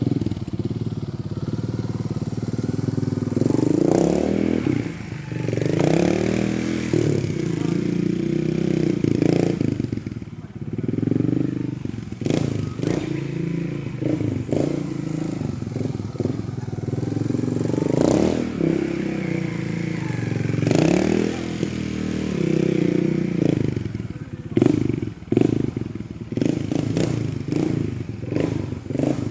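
Trials motorcycle engine running at low revs with repeated short throttle blips, its pitch rising and falling with each one, mixed with sharp clattering knocks.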